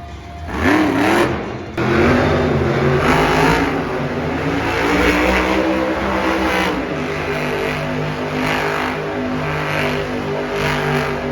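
Monster truck engine revving and running under load, its pitch rising and falling about a second in, then running on steadily after an abrupt cut.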